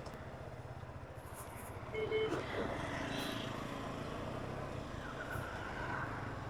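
Motorcycle engines running at a low, steady idle, with a brief faint high beep about two seconds in.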